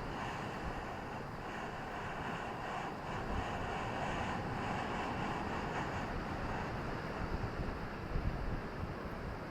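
Ocean surf washing on a beach: a steady rushing wash with a low rumble beneath, swelling slightly now and then.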